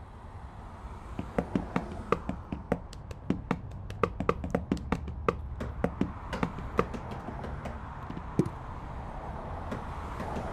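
Hands tapping and drumming on a car's steering wheel and door in an irregular rhythm: dozens of sharp taps over a low steady engine rumble, with the last loud tap a little past eight seconds in.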